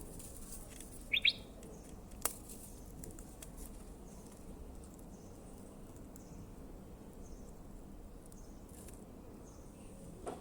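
A short, quick two-note chirp about a second in, like a small bird, over a low hiss and scattered faint ticks and clicks. There is one sharp click about two seconds in.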